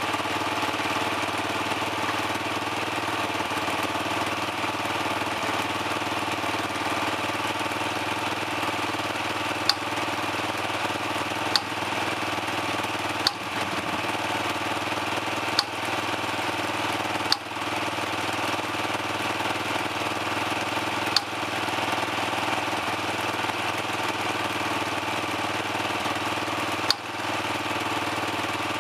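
Dirt bike engine idling steadily while warming up. About seven sharp brief clicks break in irregularly through the second half.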